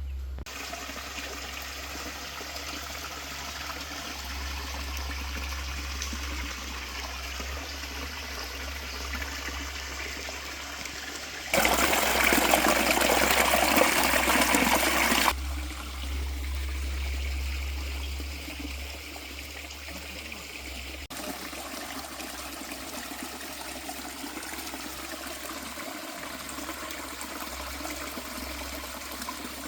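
Running water of a forest river or small falls, a steady even rush. One louder stretch of about four seconds comes partway through.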